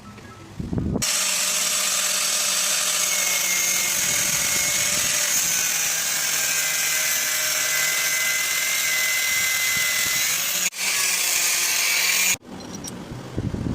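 A power tool running under load for about eleven seconds, a steady hissing whine with a very brief dip near the end, then cutting off sharply.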